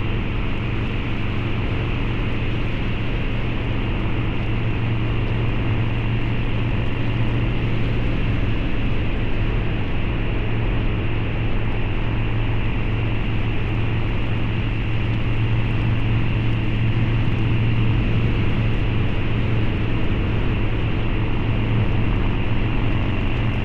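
Harley-Davidson Low Rider's 129ci V-twin running at a steady cruise through a Two Brothers Racing exhaust, with no revving up or down, over a steady rushing noise.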